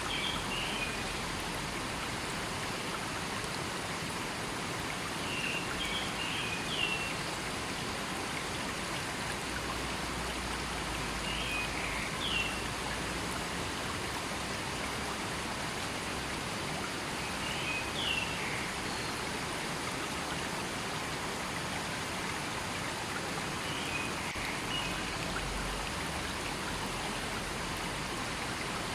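River water rushing steadily. A short cluster of high chirps comes about every six seconds.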